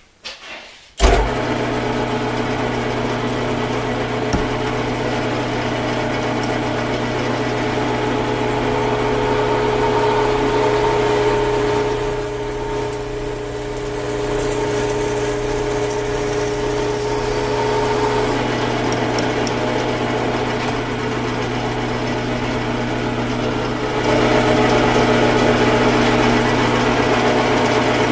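A small electric power tool's motor switches on about a second in and runs steadily, with a constant hum and a few steady higher tones. It gets somewhat louder near the end. A few light knocks come just before it starts.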